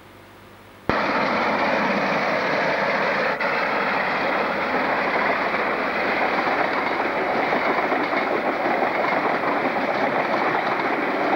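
Diesel locomotive hauling a container freight train past, with its engine running and the wagons rolling over the rails in a steady, dense noise. The sound starts abruptly about a second in.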